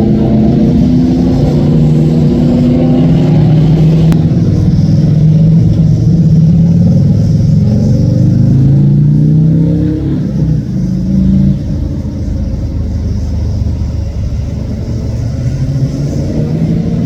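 Classic cars driving past one after another, their engines running and accelerating, the engine pitch rising and falling as each goes by. Loudest for about the first ten seconds, then quieter.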